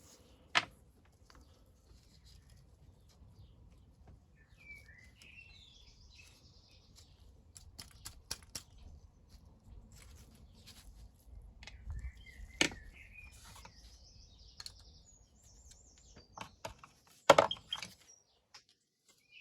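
Small birds chirping now and then, with sharp clicks and clinks of small carburettor parts being handled on a bench; the loudest is a quick cluster of clicks near the end.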